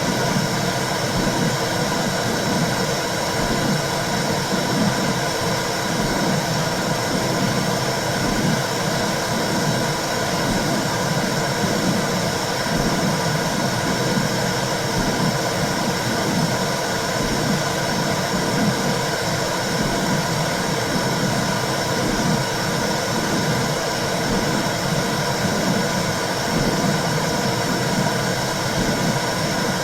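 Womb sound for babies: a steady rushing, whooshing noise with a low pulse roughly once a second, like blood flow and a heartbeat heard from inside the uterus.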